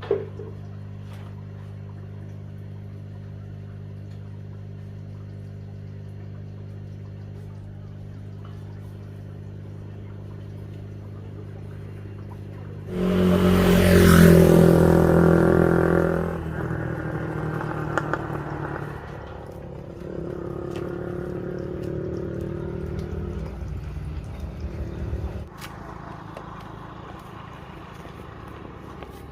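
A motor vehicle's engine idling steadily, then revving up sharply about thirteen seconds in and running on at a varying, lower level.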